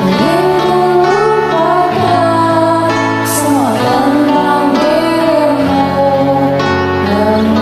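A woman singing a slow pop ballad over a karaoke backing track, her voice gliding between held notes above steady accompaniment.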